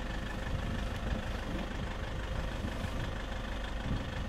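Vehicle engine idling steadily while stopped.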